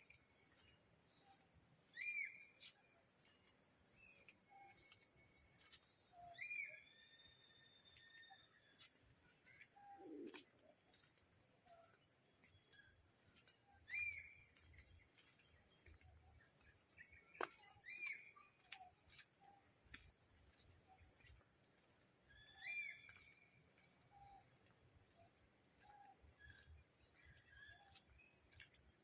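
Forest birds calling: short chirps and whistled notes repeating every few seconds, over a steady high-pitched drone.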